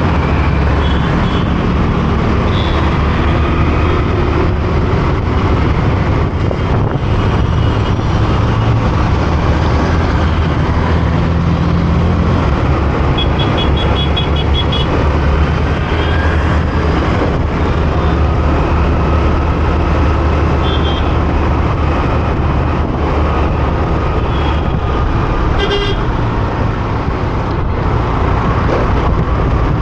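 Motorcycle ride through city road traffic: a steady engine rumble and road noise, with vehicle horns beeping several times, one of them a quick run of beeps about halfway through.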